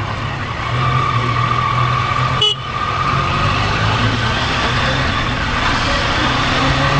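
A motor vehicle running at a steady pitch, with a brief break about two and a half seconds in.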